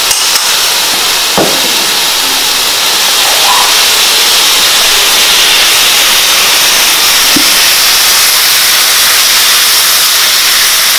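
Mushrooms, red onion, garlic and ginger sizzling steadily as they fry in a hot skillet.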